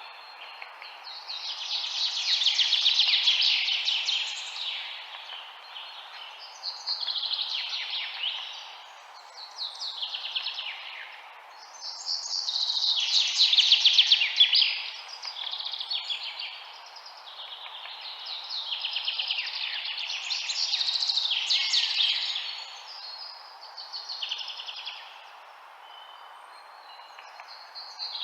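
Birds chirping in repeated bursts of rapid, high twittering, each a few seconds long with short lulls between, over a steady background hiss.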